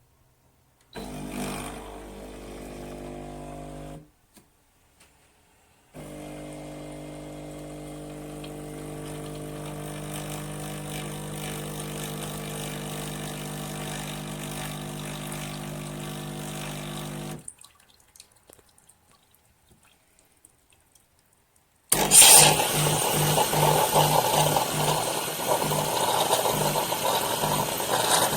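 Espresso machine's pump humming steadily, first for about three seconds and then, after a short pause, for about eleven seconds; a few light clicks follow. Near the end a much louder hiss of steam starts, with a low hum pulsing about twice a second.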